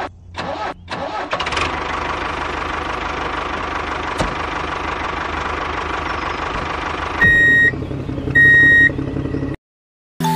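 A small motor starts with a few short bursts, then runs steadily. Near the end come two loud beeps about a second apart, and the sound cuts off suddenly.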